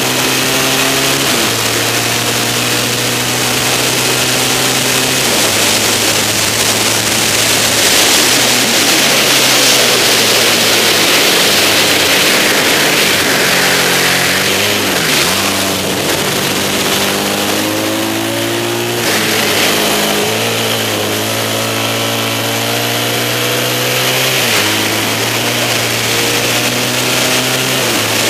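Yamaha XS650 parallel-twin engine of a racing sidecar outfit running hard, heard from on board over heavy wind rush. The revs hold for a few seconds at a time, jump at gear changes, and twice sag and climb again through corners.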